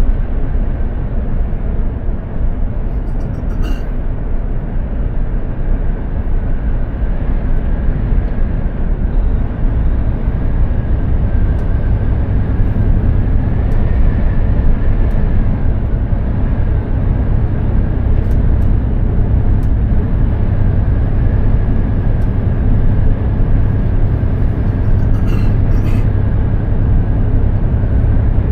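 Mercedes-Benz Actros 2763 truck's straight-six diesel and tyres on the road while driving: a steady, loud low drone with a faint steady whine above it. A few short clicks come in twice, near the start and near the end.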